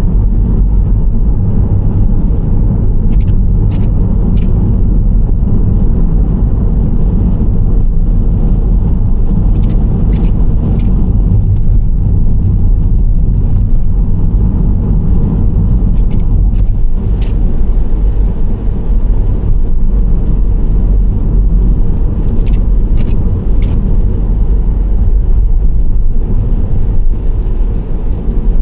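Steady low road and drivetrain noise from a Nissan Serena C25 minivan cruising. Brief high clicks come in small clusters of two or three, about every six or seven seconds.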